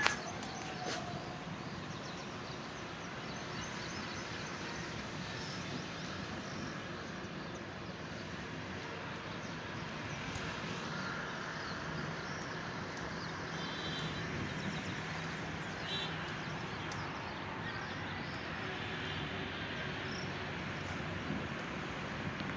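Steady outdoor ambient noise with a few faint, short bird chirps now and then.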